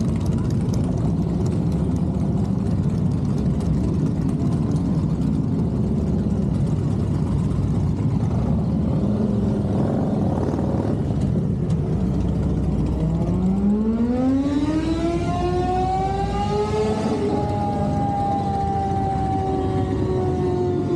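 A motorcycle engine, plausibly a sport bike on the event's dyno, rises steadily in pitch through its rev range for about four seconds, then winds down slowly, as in a full-throttle dyno pull and coast-down. Before the pull there is a steady low rumble of idling engines.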